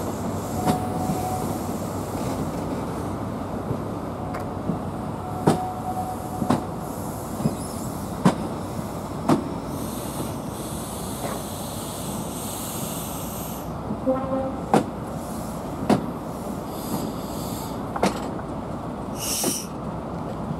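Mark 3 coaches of a Class 43 HST rolling slowly past at close range: a steady rumble with sharp wheel clicks over rail joints, irregularly about one a second, and a few brief faint squeals.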